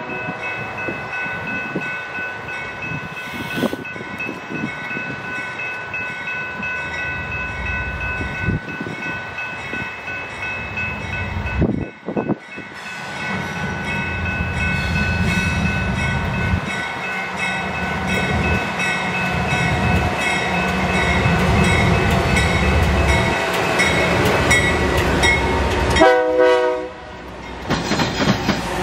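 Freight train's diesel locomotives approaching and passing with the horn sounding, with a brief break near the middle. The deep engine rumble grows loud in the second half as the locomotives go by.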